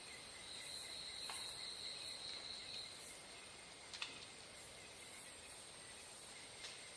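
Insects chirping steadily in a high, thin drone, with a stronger trill about half a second in that lasts some two seconds and a shrill pulsing that comes back about once a second. A single sharp click sounds about four seconds in.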